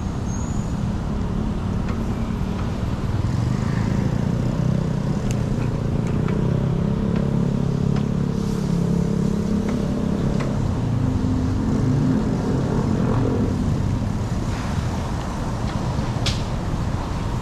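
City road traffic: motor vehicle engines running close by in a steady hum, with a few short ticks near the end.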